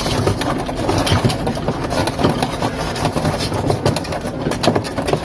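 Handling noise of plastic refrigerator parts and a wiring harness being fitted: irregular rustling, scraping and small clicks over a low hum.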